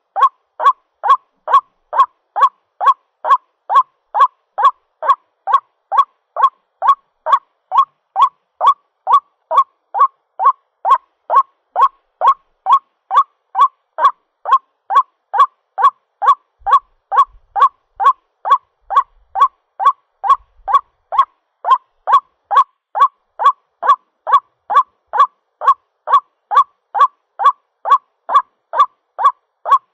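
White-breasted waterhen's call repeated over and over at an even pace, a bit under two calls a second, every call alike. It is a lure recording of the bird calling for a mate, used to draw waterhens in.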